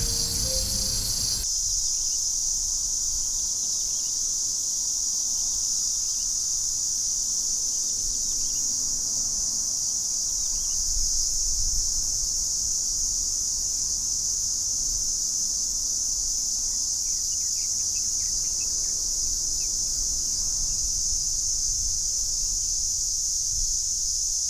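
Platypleura hilpa cicada singing: a continuous, steady, high-pitched buzz. About a second and a half in, it changes from a broader, pulsing buzz to a narrower, purer steady tone.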